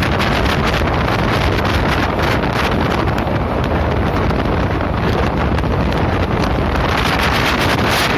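Passenger train running at speed: a steady rumble with wind buffeting the microphone.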